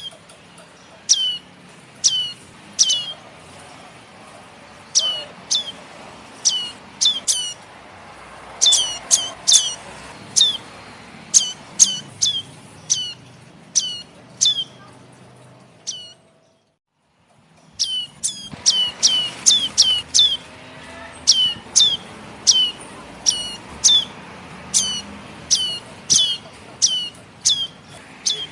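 Young prenjak birds (red-headed prenjak) calling: a long run of short, sharp chirps, each a quick downward sweep, coming singly or in quick clusters of two or three. The sound cuts out completely for about two seconds near the middle, then the chirping resumes.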